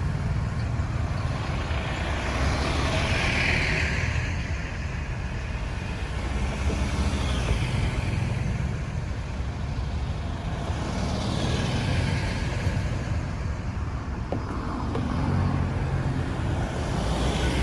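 Road traffic: a steady low engine rumble, with vehicles passing three times, their tyre and engine noise swelling and fading.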